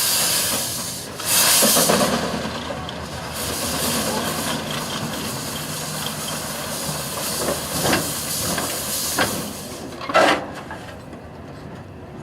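1907 Avery steam traction engine hissing steam. A louder surge comes about a second in, then a few short sharp bursts near the end before the hiss dies down.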